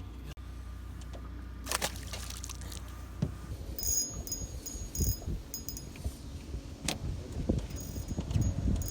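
Water splashing and lapping at a small fishing boat, with knocks, clicks and rattles of fishing tackle as a hooked small fish is reeled in. A low steady hum stops about three and a half seconds in.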